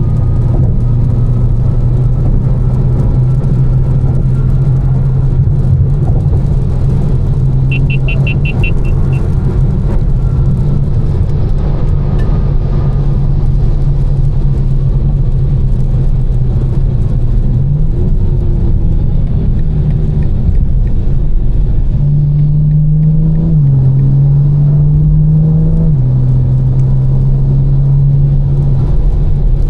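Tuned BMW M4's twin-turbo inline-six, fitted with catless downpipes and an Fi exhaust, droning steadily while driving, over road rumble. Its pitch steps up and down several times in the second half. About eight seconds in there is a short burst of rapid high beeps.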